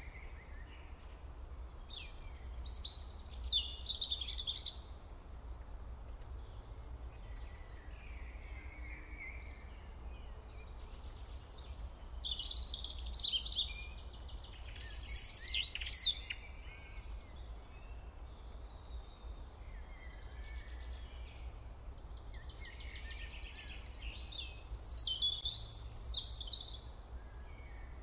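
Birds chirping in three bursts of quick, high chirps, over a steady low hum.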